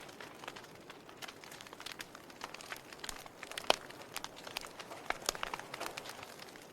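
Log fire crackling in a fireplace: irregular sharp pops and snaps from the burning wood, with one louder pop a little past halfway.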